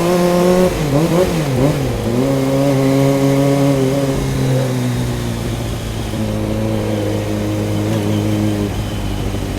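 Motorcycle engine running on the road: its pitch dips and climbs twice in the first couple of seconds, then holds steady and slowly sags.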